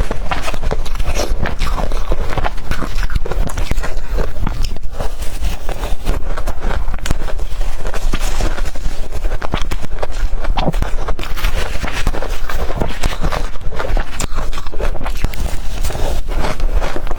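Blender-crushed ice being bitten and chewed: continuous, loud, dense crunching.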